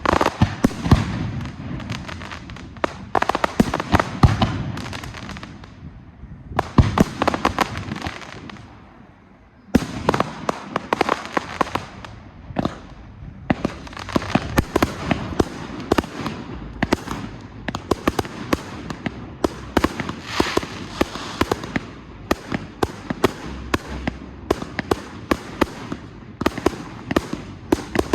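Professional fireworks display: shells bursting with dense bangs and crackle. The bursts thin out briefly about a third of the way in, then a loud bang sets off a long run of rapid cracks and reports.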